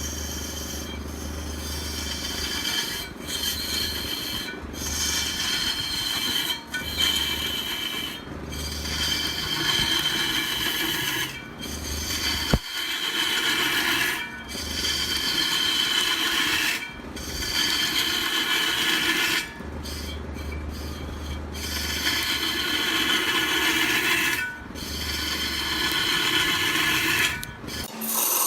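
Wood lathe turning large wood while a cutting tool scrapes into it: a harsh scraping hiss with shrill, squealing tones and a low motor hum. The sound is broken by short gaps every second or two, with a sharp click about halfway through.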